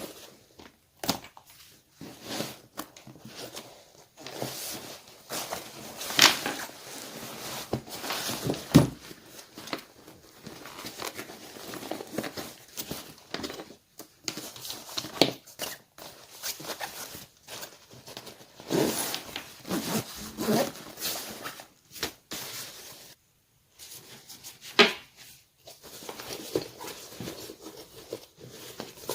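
Irregular rustling and handling noises with scattered sharp clicks and snaps, the loudest a few separate snaps.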